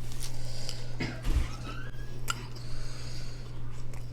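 Eating sounds: a few sharp clicks of a spoon and fork against a plate, with chewing, over a steady low hum.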